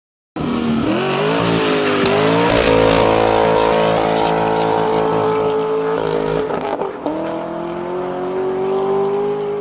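2018 GMC Sierra's 6.2-litre V8 running through a true dual exhaust with Tunnel Ram mufflers. It starts suddenly and rises in pitch twice as it accelerates, then holds a steady note. It dips around six seconds in and climbs slowly again near the end.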